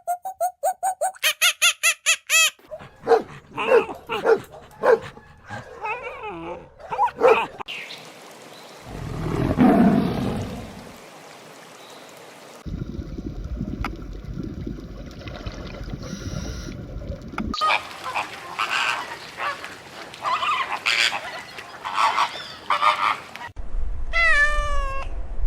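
A run of different animal calls, one after another, with abrupt changes every few seconds between short bursts of repeated pitched calls, a low call and a noisy stretch.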